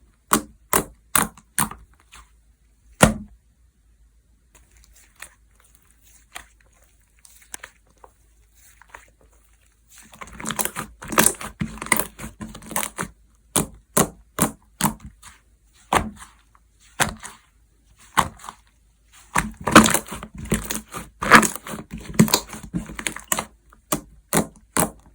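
Slime being squished, folded and pressed by hand, making a string of sharp wet pops and clicks as air pockets burst. The pops come in quick clusters, thin out to scattered faint ones for several seconds about four seconds in, then pick up again densely for the rest.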